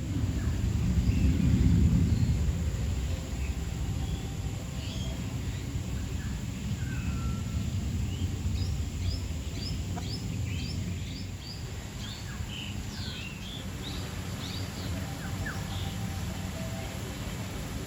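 Birds chirping and whistling over a steady low background rumble, with a quick run of short descending chirps, about three a second, about halfway through. The rumble is loudest in the first couple of seconds.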